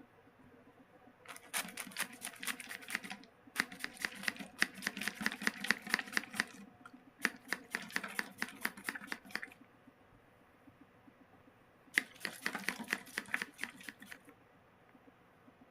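Cockatiel drinking water, its beak making quick runs of sharp clicks in four bouts of a few seconds each.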